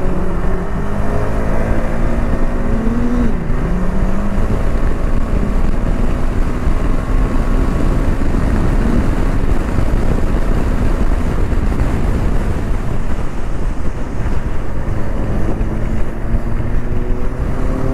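Motorcycles running at highway speed, with heavy wind rushing over the microphone. The engine note dips and recovers about three seconds in, sinks under the wind through the middle, and comes back near the end.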